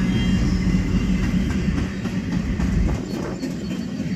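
Freight train cars rolling past, a steady low rumble with faint clacks from the wheels.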